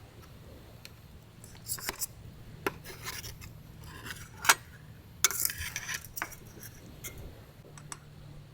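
Cookware and utensils being handled: a run of irregular scrapes and clicks, the sharpest about halfway through, with a burst of scraping soon after.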